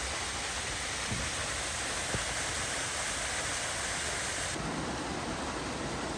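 Steady rush of running stream water. About four and a half seconds in the sound changes abruptly, with less hiss and more low rumble.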